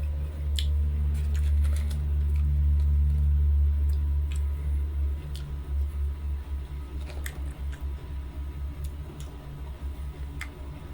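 A man eating cheese fries. A low rumble is steady for about five seconds and then pulses irregularly with his chewing close to the microphone, and a few small clicks and taps come from handling the food.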